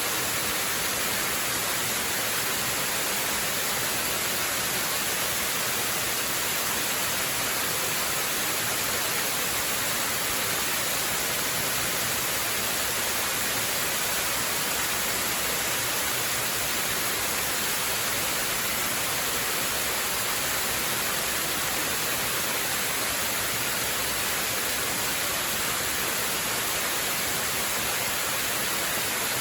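Waterfall: a steady, unbroken rush of falling water, bright and hissy, that does not change.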